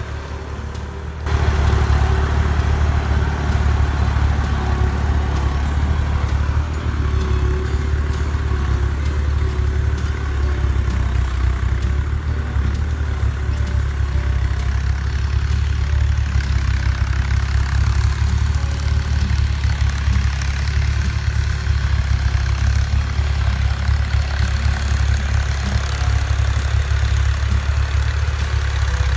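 Al Ghazi (New Holland) tractor's diesel engine running steadily while the tractor pulls a plough. It gets louder about a second in.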